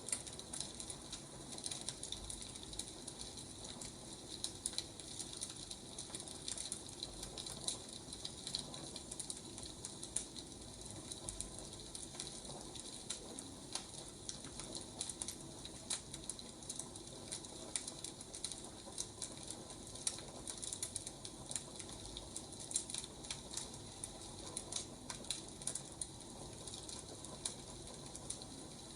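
Wood fire crackling: a continuous run of small, irregular snaps and pops over a soft hiss.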